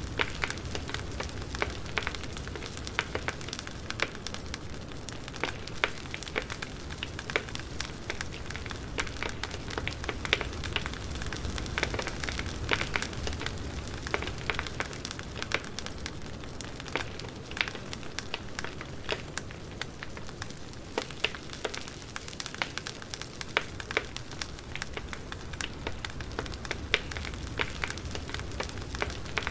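Campfire burning, with dense, irregular crackles and pops from the wood over a steady low rumble of the flames.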